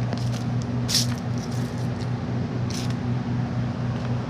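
Steady low mechanical hum of machinery running, with two short hisses, one about a second in and one near three seconds in.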